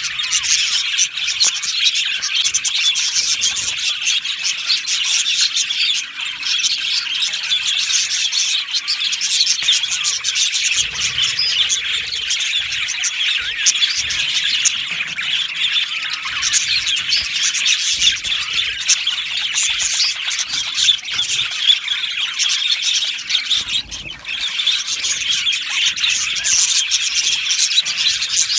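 A flock of budgerigars chattering and chirping together: a dense, unbroken mass of overlapping warbles, chirps and squawks with no single bird standing out.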